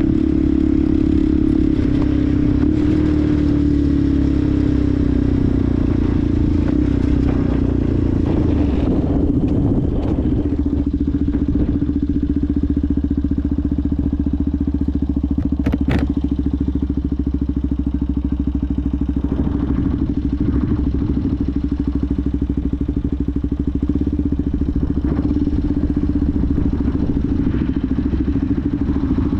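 Benelli TNT 125's single-cylinder engine running, its note falling over the first several seconds and then holding steady. A single sharp click sounds about halfway through.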